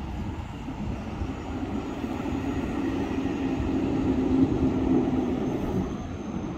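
Appenzeller Bahnen narrow-gauge electric train passing: a rumble of wheels on the track with a steady motor hum that grows louder to a peak about four to five seconds in, then eases off.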